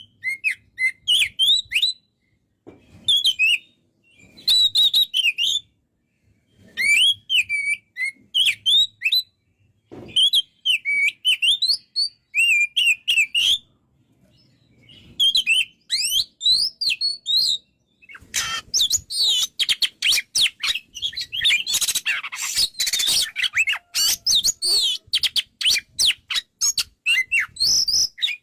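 Oriental magpie-robin (kacer) in full, vigorous song: short bursts of quick whistled and chirping phrases with brief pauses between them, then a dense, unbroken run of rapid notes for the last third.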